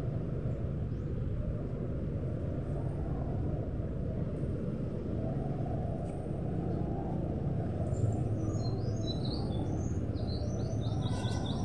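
A small bird chirping a quick run of short, high notes during the last few seconds, over a steady low rumble of outdoor background noise.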